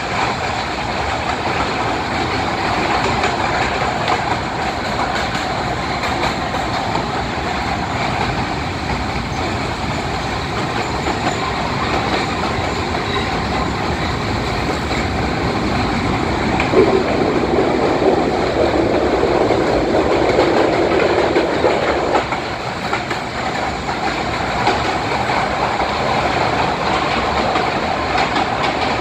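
Kurobe Gorge Railway's narrow-gauge trolley train running, heard from inside an open-sided passenger car: a steady rumble and clatter of wheels on rails. The running noise grows louder and deeper for about five seconds past the middle.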